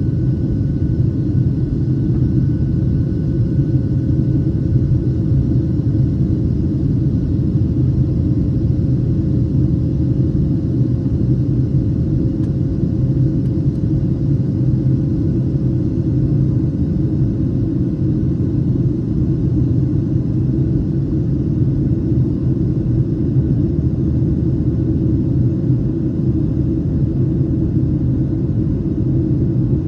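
Steady low rumble of an airliner cabin in flight, with a faint steady hum above it and no change throughout.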